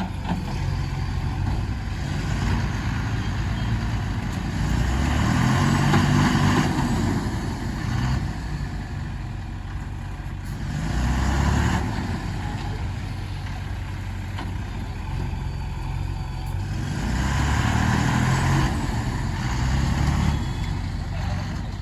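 JCB 3DX backhoe loader's diesel engine working under load while loading murram into a truck, revving up in three louder surges a few seconds apart between steadier running.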